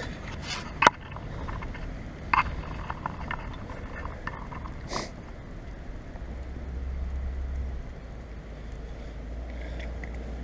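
Steady road and wind noise while riding a bicycle, with a low rumble that swells for a couple of seconds past the middle and a few sharp clicks, the loudest just under a second in.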